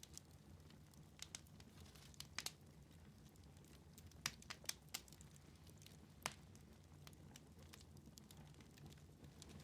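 Wood fire in a fireplace crackling: scattered sharp pops and snaps, a few of them in quick clusters, over a faint low steady hum.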